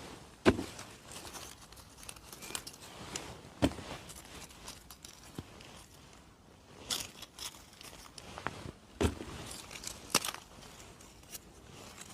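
Scattered sharp snaps and clicks with soft rustling, from someone moving through forest-floor litter and picking mushrooms; the loudest snap comes about half a second in.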